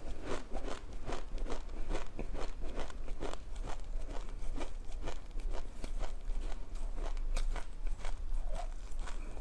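Someone chewing a mouthful of black sesame seeds: a run of crisp crunches, about three a second.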